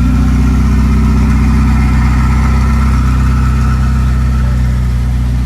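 Car engine idling steadily close by, loud and low-pitched.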